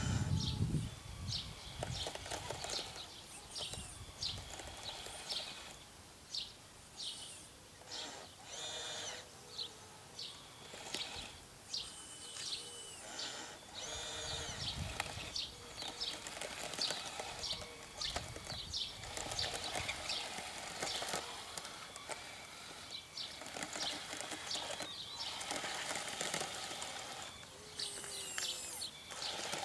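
Small birds chirping many times in short, high calls over a faint steady background hiss.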